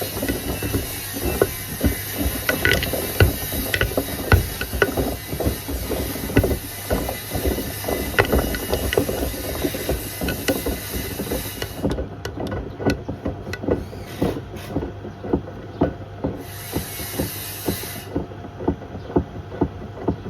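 Beko WM74135 washing machine drum turning with a toaster and a kettle inside, clattering and knocking against the drum; in the second half the knocks fall into an even beat, about two a second. A high hiss runs under it and cuts out about twelve seconds in, coming back briefly later.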